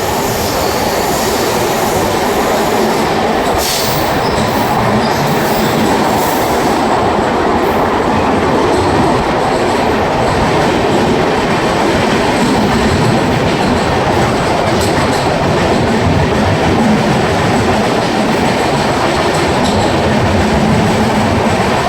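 Andaman Express passenger train running at speed, heard on board: a loud, steady rumble of wheels on the rails with a high hiss over it for the first several seconds that then fades.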